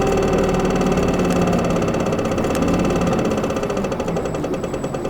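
Isuzu Erga city bus's four-cylinder turbo-diesel engine running, heard from inside the cabin. Its steady hum eases off after about three seconds.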